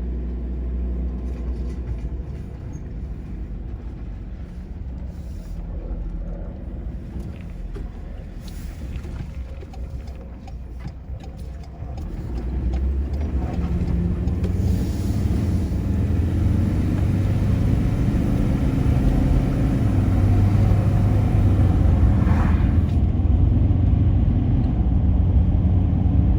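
Ford Ranger pickup driving on the road: steady engine and road rumble, growing louder about twelve seconds in.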